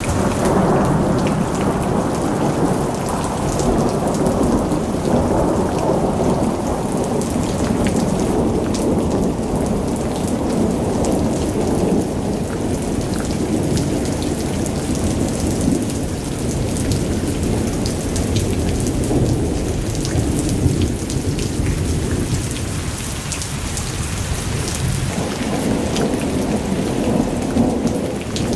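Heavy rain falling with long, rolling thunder rumbling low and almost without a break. The thunder eases off for a few seconds shortly before the end, then builds again, while the patter of drops goes on throughout.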